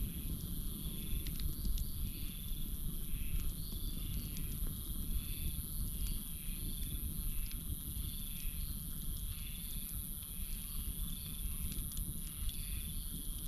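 Campfire burning with a low rumble and a few sharp crackling pops, under a steady high drone of night insects and a chirping call repeating about once a second from crickets or frogs.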